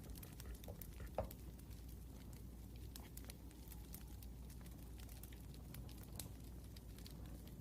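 Wood fire crackling: faint irregular pops and snaps over a low steady rumble, with one sharper snap about a second in.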